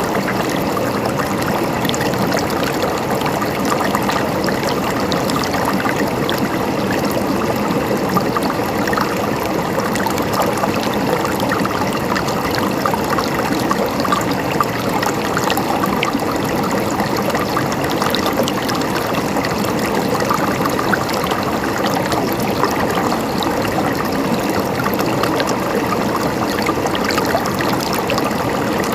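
Running water gurgling steadily, with fine splashes and drips throughout and no change in level.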